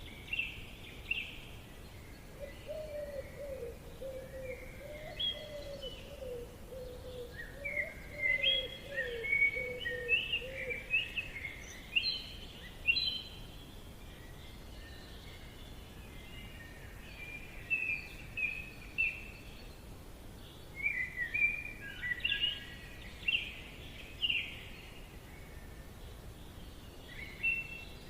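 Forest birdsong: songbirds singing in bouts of quick chirping phrases that come and go, with a lower warbling call under them for the first ten seconds or so, over a faint steady background hiss.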